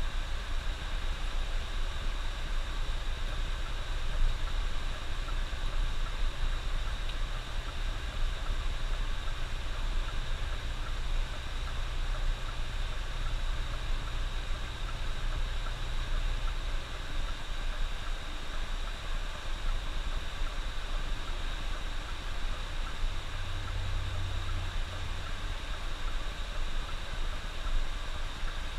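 A bus running along the road, heard from inside: a steady low engine hum under constant road hiss. The engine note changes about halfway through and rises in level for a few seconds near the end.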